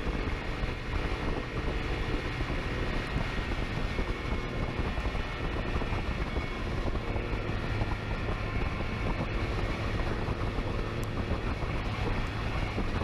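Steady engine and wind noise of a vehicle driving fast in a police chase.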